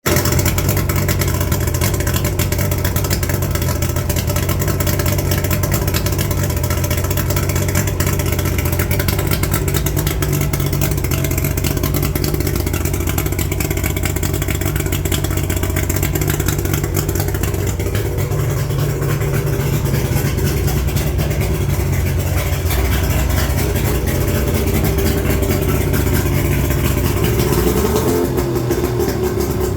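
1987 Mercury 80 hp inline three-cylinder oil-injected two-stroke outboard running steadily. Its pitch rises near the end as it speeds up.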